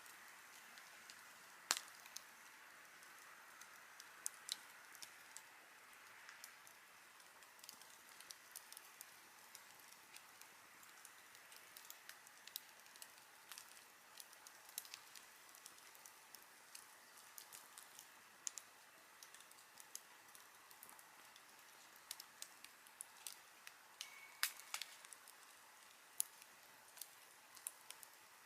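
Wood campfire crackling: irregular sharp pops and snaps over a soft, steady hiss, with the loudest pops about two seconds in and again near the end.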